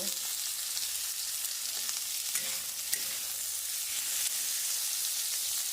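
Sem (flat beans) and potatoes frying in oil in a kadhai for a dry sabzi: a steady sizzle with a few faint ticks.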